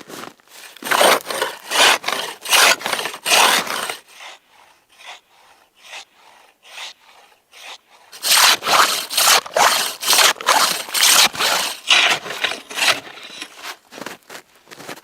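Hand saw cutting wood in back-and-forth rasping strokes, about two a second. There are two runs of sawing with a pause of a few seconds between them.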